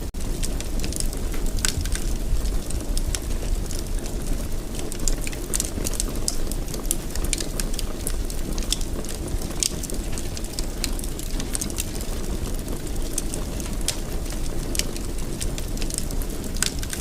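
Wood fire burning in a fireplace: a steady low rumble of flame, with frequent irregular crackles and pops from the burning wood.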